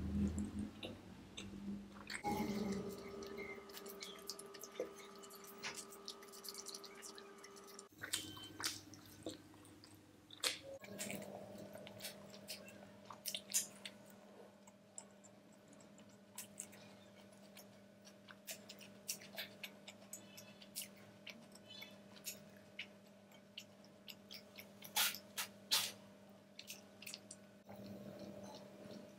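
Close-up chewing and wet mouth smacks of someone eating chicken biryani and roasted chicken by hand, with many short sharp clicks over a faint steady hum.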